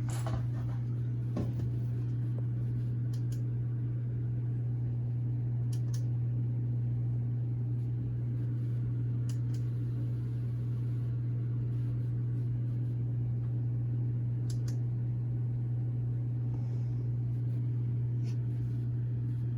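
A steady low mechanical hum that holds at an even level throughout, with a few faint clicks.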